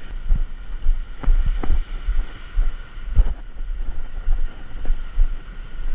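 Wind buffeting the microphone: an uneven low rumble broken by irregular thumps.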